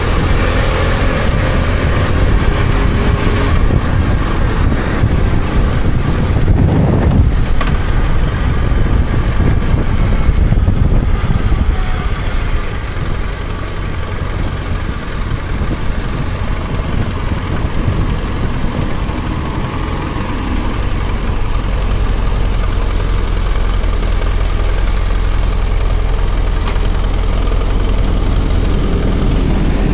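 BMW F800GS parallel-twin motorcycle engine running as the bike is ridden, with a steady rush of road noise. It goes quieter for several seconds near the middle, then settles into a steady low drone.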